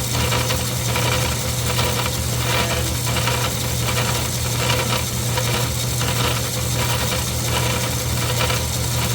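Craftsman 109 metal lathe running, with a steady motor hum and a rhythmic rasping that repeats about twice a second.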